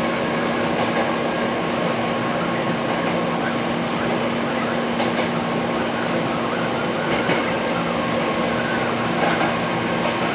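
Hankyu Railway electric commuter train running slowly out of the station, heard from inside the front car: a steady rumble of wheels on rail with a steady electrical hum.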